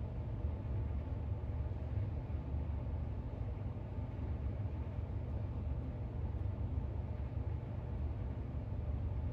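Steady low rumble of background room noise, with no page turns or other distinct sounds.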